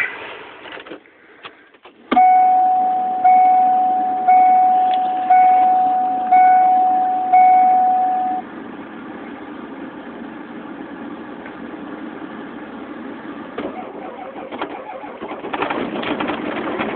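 Warning chime of a 1993 Ford truck with the 7.3 IDI diesel, dinging six times about once a second after the key is turned on. Near the end the non-turbo 7.3 IDI V8 diesel starts up cold and begins running.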